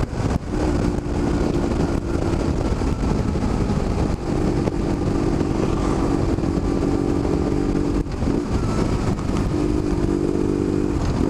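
BMW R1150GS boxer-twin engine running steadily at cruising speed through its Danmoto exhaust, heavy wind noise buffeting the microphone. The engine note shifts slightly a few times.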